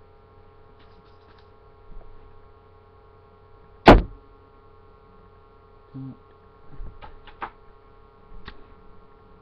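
Beyblades and launcher being handled between rounds: one sharp knock about four seconds in and a few faint clicks and taps, over a steady electrical hum.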